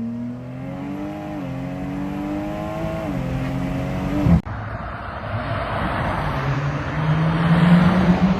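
Car engine accelerating hard, its pitch climbing and dropping twice at upshifts. About four seconds in it cuts off suddenly to another hard pull, the engine note rising again under growing tyre and wind rush.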